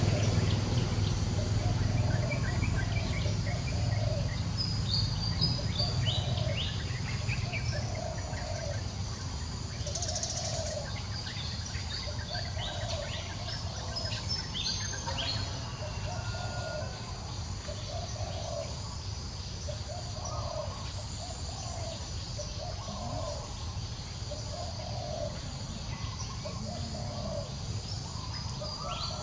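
Wild birds calling in forest: one bird repeats a short mid-pitched note about once a second, over scattered high chirps. A low rumble fades over the first few seconds.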